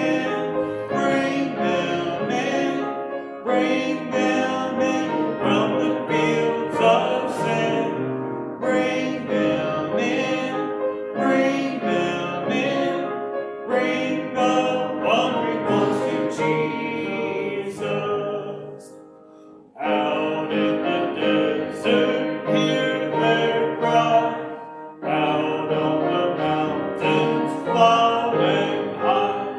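A hymn sung with piano accompaniment, in phrases with short breaths between them and a brief drop just before the two-thirds mark.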